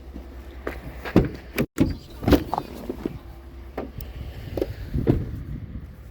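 Scattered knocks and clunks of hard objects being handled, about ten in all and loudest a little over a second in, two seconds in and near the end, over a steady low rumble.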